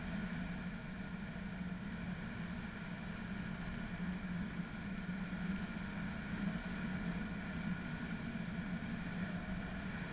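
A steady engine drone with a constant low hum and hiss, not changing in pitch or level.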